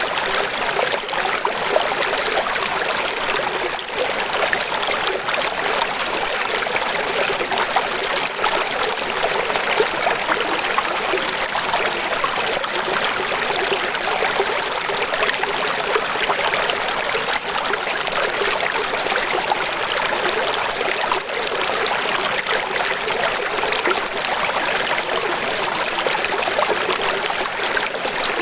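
Running water rushing steadily and evenly, with no breaks or single events.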